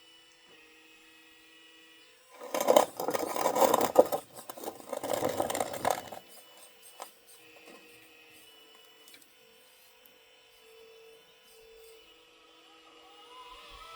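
Homemade 1/12-scale metal RC excavator at work: two loud bursts of grinding, scraping mechanical noise, each about two seconds long, the first starting about two and a half seconds in. A faint steady whine runs underneath in the quieter parts.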